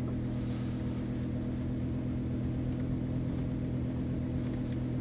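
Lamborghini Huracán Tecnica's naturally aspirated V10 running at steady low revs, an even drone heard from inside the cabin.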